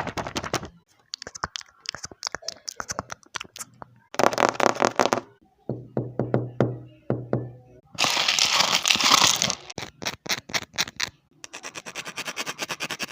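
A run of close-up ASMR trigger sounds: rapid clicking, tapping and crackling in short separate bursts that change every second or two, one of them with a low hum under spaced ticks.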